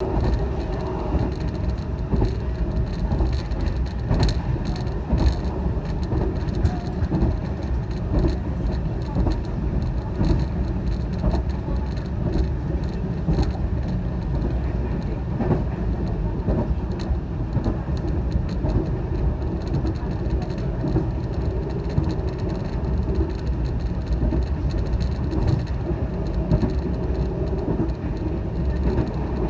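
A train running along the track, heard from on board: a steady low rumble of wheels on rail with scattered short clicks and knocks.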